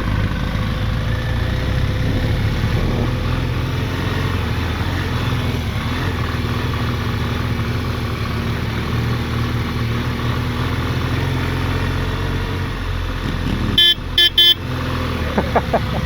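Motorcycle engine running steadily, with two short horn toots near the end.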